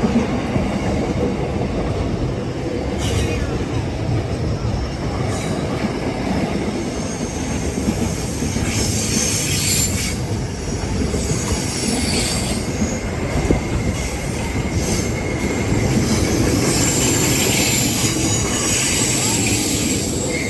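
A train rolling past, its wagons making a steady rumble on the rails. High-pitched wheel squeal comes in from about halfway through, with a thin, steady squeal held over the last several seconds.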